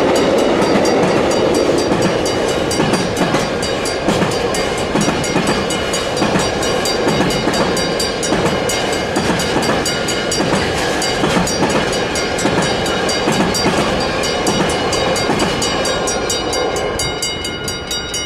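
Container wagons of an intermodal freight train passing at speed: a steady rumble and rattle with quick, regular clicking of wheels over the rail joints. It fades near the end as the last wagon goes by.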